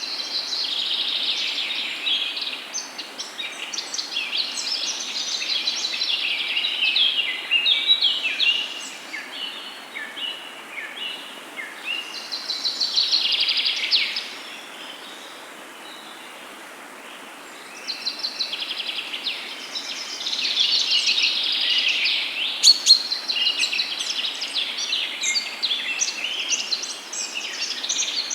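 Several songbirds singing and chirping at once in quick, overlapping phrases. The song thins out for a few seconds about halfway through, and a faint steady hiss runs underneath.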